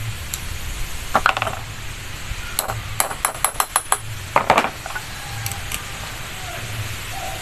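Metal tools and parts knocking and clinking during work on a fuel pump: a few knocks, then a quick run of about six sharp metallic taps, then another couple of knocks, over a steady low hum.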